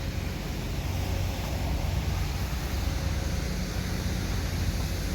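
Steady low rumble of a semi truck's diesel engine running, with a faint steady hum over it.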